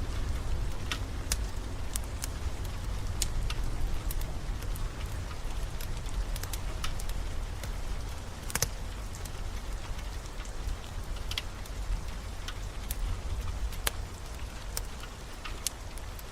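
Steady rain mixed with a fireplace's wood fire crackling, giving irregular sharp pops over the rain's hiss, with a low rumble underneath that is strongest at the start.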